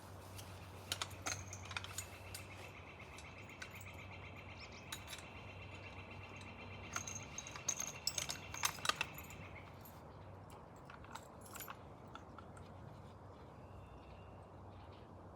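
Metal climbing gear clinking and jangling as it is handled, with a cluster of louder clinks about eight seconds in. A high, even trill runs in the background for several seconds and stops about ten seconds in.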